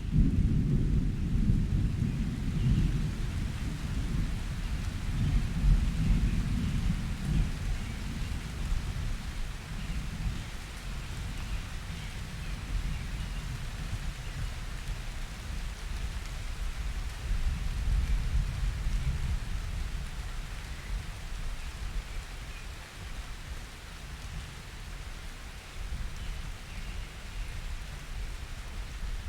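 Summer thunderstorm: low rolling thunder over steady rain. The rumble is heaviest in the first few seconds, then fades to a lower, uneven grumble as the rain keeps falling.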